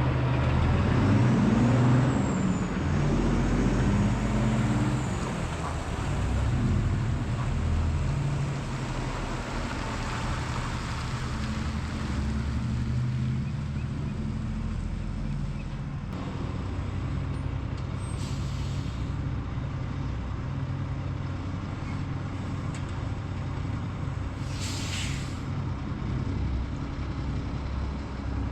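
Semi-truck diesel engine running, its pitch rising and falling in the first few seconds and then steady, with two short air-brake hisses, about 18 and 25 seconds in.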